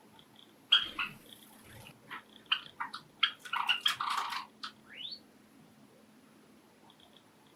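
Pet Java sparrows chirping: a run of short, sharp calls and clicking notes over about four seconds, ending with a quick rising note.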